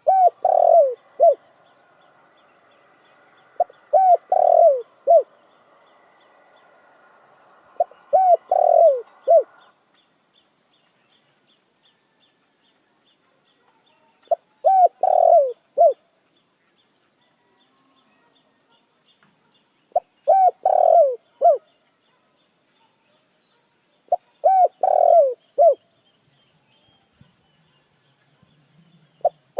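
Spotted dove cooing: six phrases of three or four low coos each, a few seconds apart. A faint, rapid high chirping of another small bird runs underneath.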